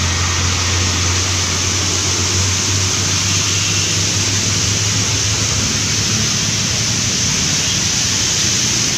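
Heavy rain hissing steadily together with tyres swishing through water as traffic passes on the wet road. A passing truck's engine drones low at first, fading after about four seconds.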